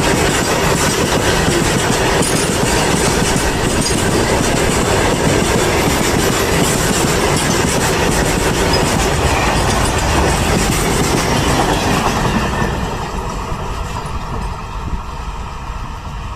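Indian Railways freight train rolling past, its wagons' wheels clattering over the rail joints in a steady loud rush. About twelve seconds in, the noise begins to fade as the train draws away.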